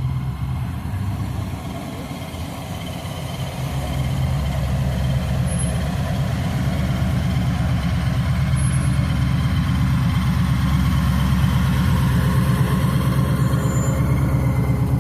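A car engine idling with a steady low rumble that grows louder about four seconds in.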